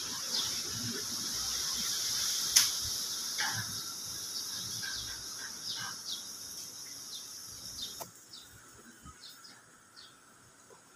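Outdoor ambience: a steady high hiss with scattered short bird chirps. There is a sharp click about two and a half seconds in, and the hiss drops away about eight seconds in.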